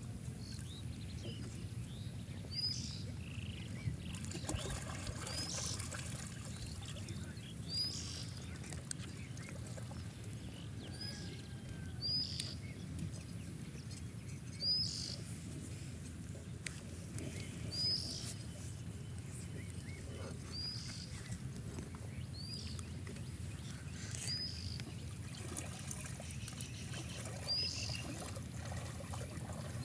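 A bird repeating a short, high call about every two to three seconds, over a steady low rumble and the slosh and trickle of pond water stirred by a person wading.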